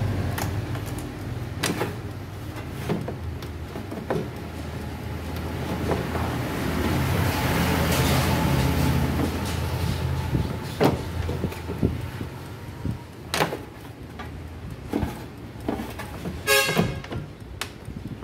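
Road traffic rumbling past, swelling as a vehicle goes by midway, with scattered knocks and a short horn-like tone near the end.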